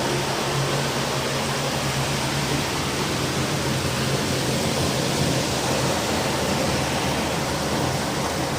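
Heavy rain and strong wind in a storm, a steady, even rushing noise. A faint low hum runs underneath for the first few seconds.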